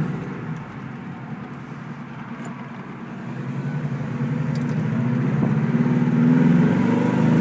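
1973 Saab 96's V4 engine heard from inside the cabin while driving, running quietly near idle at first, then getting steadily louder from about three seconds in as the throttle opens and the freewheel picks back up to drive the car.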